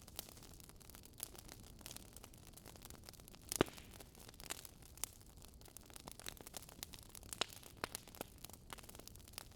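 Campfire of burning wood crackling: irregular pops and snaps over a faint steady hiss, with one louder pop about a third of the way in.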